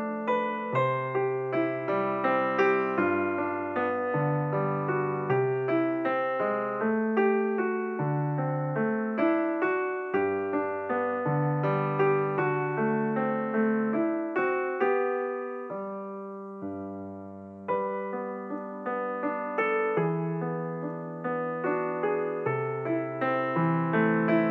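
Background music: slow, gentle piano notes and chords over held bass notes. About two-thirds of the way in, one chord is left to fade before the playing starts again.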